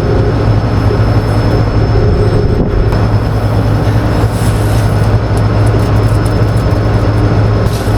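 Combine harvester running steadily: a constant deep machine drone with a few steady tones above it and a thin high whine.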